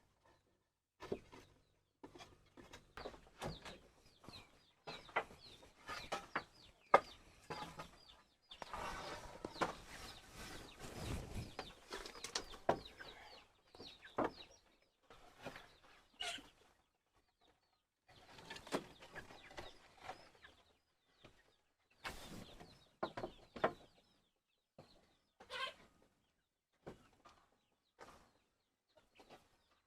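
Chickens clucking softly, among scattered knocks and clicks and a stretch of rustling in the middle.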